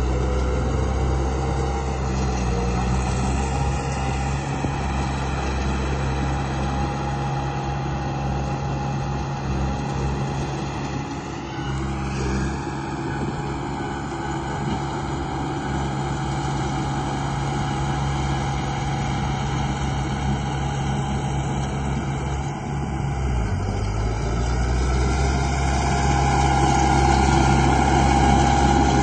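Radio-controlled model construction vehicles (a bulldozer and a dump truck) running: a steady mechanical drone with several whining tones. The tones glide up in pitch about twelve seconds in, and the sound grows slightly louder near the end.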